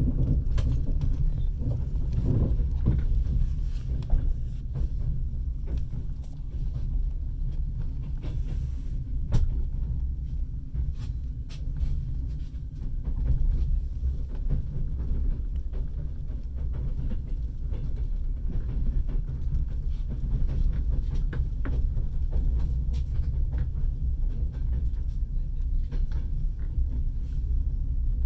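Passenger train running, heard from inside the carriage: a steady low rumble with occasional short clicks and knocks.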